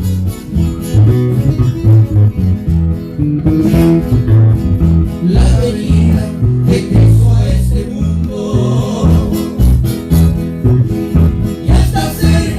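Live acoustic trio music: plucked and strummed guitars over a walking bass line.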